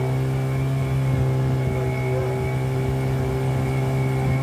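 An engine running steadily at constant speed, an even low drone.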